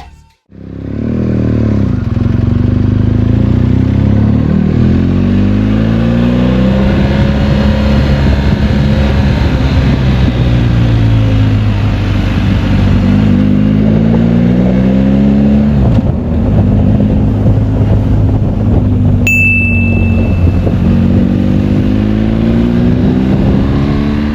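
BMW R 1250 GS Adventure's boxer-twin engine accelerating through the gears under way, its pitch climbing and dropping back at each shift several times, over wind noise. A short high beep sounds about two-thirds of the way in.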